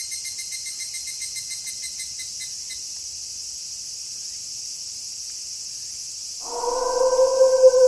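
Night insects chirring in a steady high hiss, with a pulsing trill that fades out about three seconds in. About six and a half seconds in, a wolf begins a long, loud howl that sags slightly in pitch.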